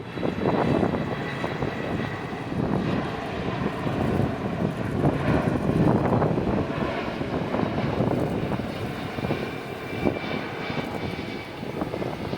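Jet airliner engines running, a continuous, wavering rumble with a faint high whine above it.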